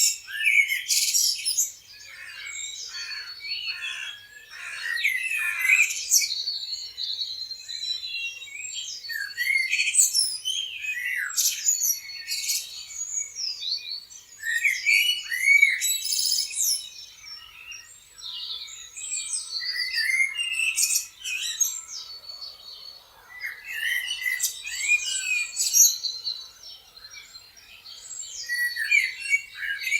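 Several songbirds chirping and singing at once: a dense, overlapping chorus of short whistled notes and quick up-and-down pitch glides that swells and eases every few seconds.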